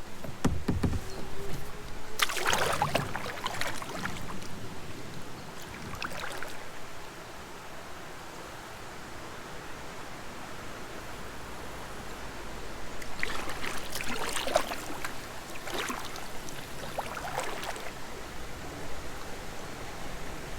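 Kayak paddling through moving creek water: a steady rush of water, with two clusters of paddle splashes and knocks, one about two seconds in and a longer one starting about thirteen seconds in.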